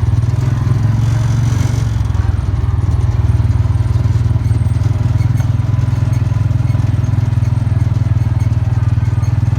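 A steady, loud low engine drone with a fast, even pulse, like a motor vehicle running at a constant speed.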